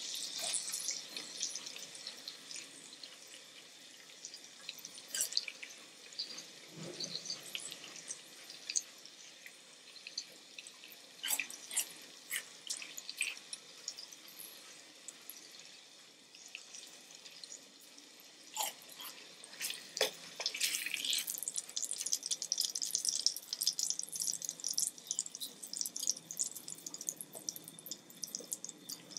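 Close-miked eating sounds: wet chewing and smacking with many sharp little mouth clicks, and a denser run of crackly sounds about two-thirds of the way in.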